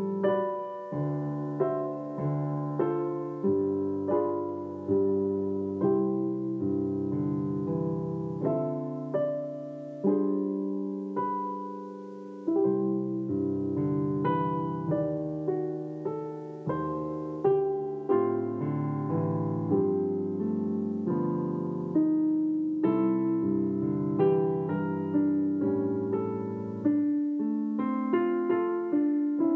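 Solo piano playing a slow Christmas song, the notes struck and left to ring and fade, chords under a melody.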